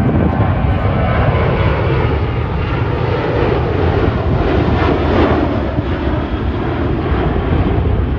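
Fixed-wing aircraft engine noise from a flypast, loud and steady.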